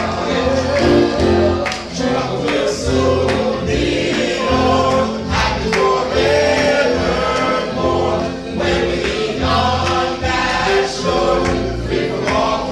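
Gospel choir singing a hymn with instrumental accompaniment: a steady bass line and regular percussion strokes under sustained vocal harmonies.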